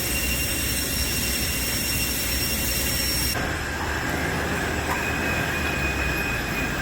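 Steady airport ramp noise: a turbine whine with several high steady tones over a low rumble. The mix changes abruptly a little over three seconds in, with different whine tones after.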